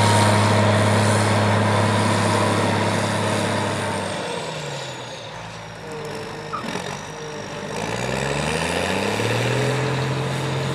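Case International 1660 Axial-Flow combine's diesel engine running steadily under load. Partway through, its engine speed drops and the sound fades, then it winds back up to a steady run, with a high whine following the engine up and down.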